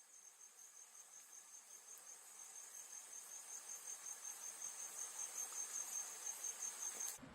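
Forest insects, crickets, chirping in an even series of high chirps about three a second that grow louder, over a steady high insect drone; the sound cuts off suddenly near the end.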